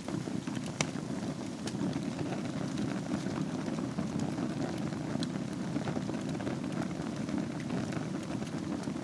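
Wood fire burning in a fireplace: a steady low rumble of flames with scattered sharp crackles and pops, one of the loudest about a second in.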